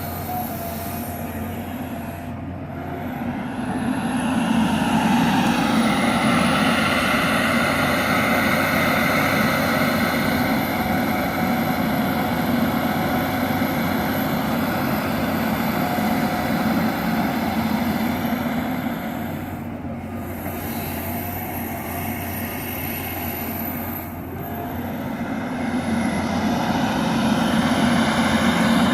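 John Deere 350G LC hydraulic excavator running and working, its diesel engine and hydraulics with a steady low hum and a whine above it. The sound swells louder twice as the machine takes load, first a few seconds in and again near the end.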